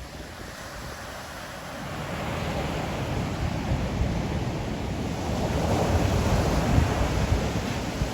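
Ocean surf: a wave builds about two seconds in, breaks and washes in loudest around six to seven seconds, then eases a little, with wind buffeting the microphone.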